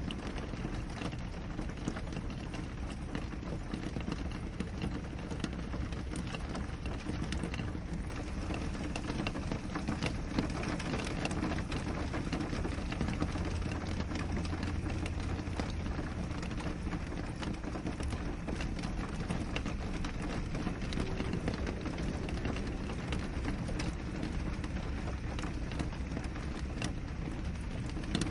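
Steady rain on a window: a constant hiss of rainfall with many small, quick drop taps on the glass.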